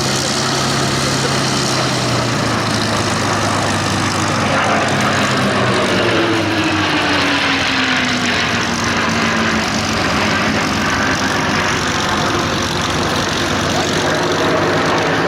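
Packard-built Merlin V-12 engines of P-51 Mustangs flying a formation aerobatic display. Starting about five seconds in, an aircraft passes by and its engine note falls steadily in pitch over several seconds.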